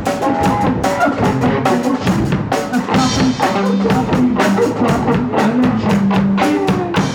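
Punk rock band playing live: drum kit pounding out a fast, steady beat under bass and electric guitar, with a cymbal crash about three seconds in.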